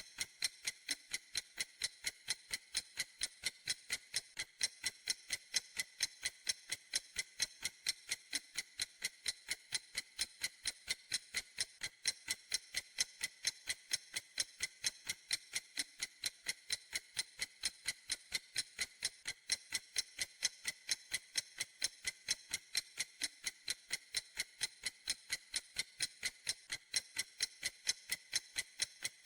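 Clock ticking in a fast, perfectly even rhythm, each tick a crisp, high click.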